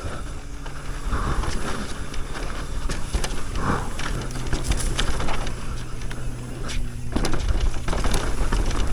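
E-mountain bike ridden down a dirt trail: tyre noise on the dirt and the bike rattling and clicking over bumps, with wind rumbling on the helmet camera microphone.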